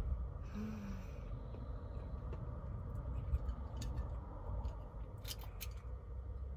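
Chewing a mouthful of rice ball (onigiri) over a low steady hum, with a few sharp light clicks a little after five seconds in as chopsticks are picked up and touch the dishes.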